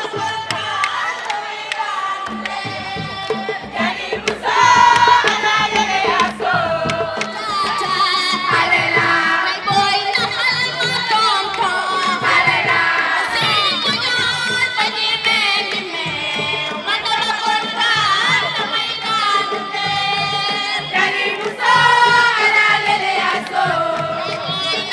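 Lively music with voices singing together, over a noisy, cheering crowd.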